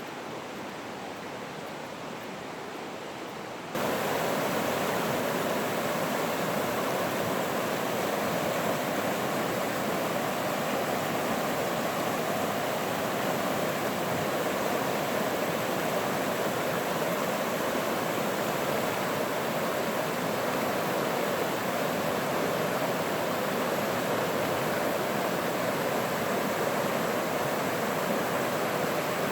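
Running water rushing steadily. About four seconds in, it suddenly becomes louder and brighter, then holds steady.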